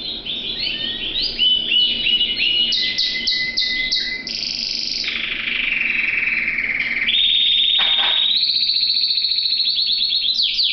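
Domestic canary singing a long unbroken song: runs of quick repeated falling notes, then a fast buzzing trill about halfway through, then a long rolling trill, with quick falling notes again near the end.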